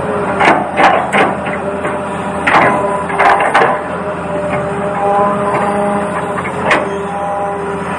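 Small electric motors of a toy RC excavator whining in steady tones that shift in pitch as they work, with a series of sharp knocks and clacks, most in the first few seconds and one more near the end.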